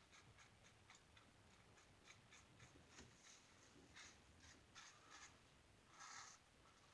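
Faint, short scraping strokes of a single-edge safety razor cutting lathered whiskers, about two or three a second, with a longer stroke about six seconds in.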